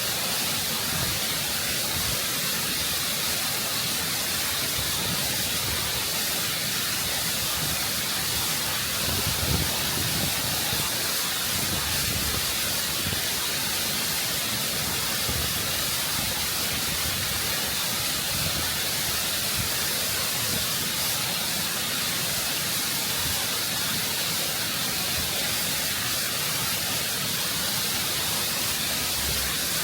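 Waterfall close up: rushing water pouring over rock in a constant, full roar of noise.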